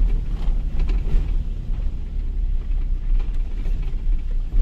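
Two-wheel-drive Toyota HiLux running, a steady low rumble from inside the cabin, with a few faint ticks and knocks.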